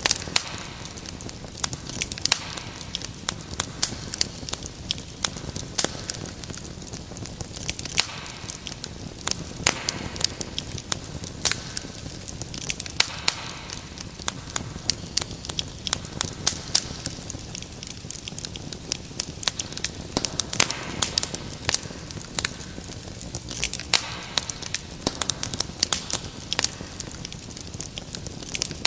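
Wood fire crackling in a fireplace: a steady stream of sharp, irregular pops and snaps over a low, even hiss of burning.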